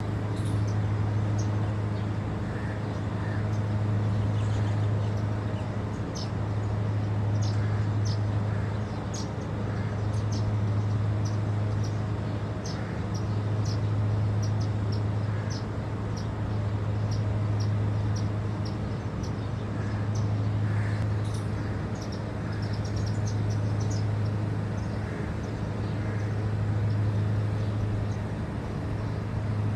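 Small birds chirping in short, high calls scattered throughout, over a steady low hum that swells and fades slightly every few seconds.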